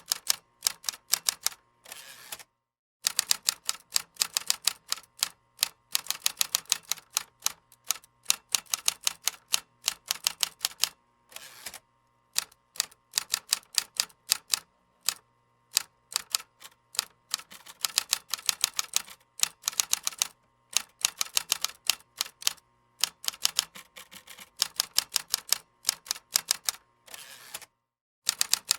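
Computer keyboard typing: fast runs of sharp key clicks in uneven bursts, with an occasional broader, longer key stroke. The sound cuts to silence briefly twice, about two and a half seconds in and near the end.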